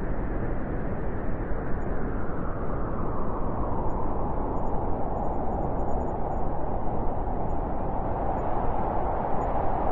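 Blizzard wind blowing steadily: a dense, even rushing with a deep rumble underneath.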